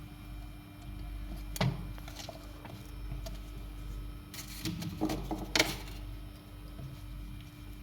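A few light clicks and taps, about a second and a half in and again in a short cluster past the middle, over a steady low hum.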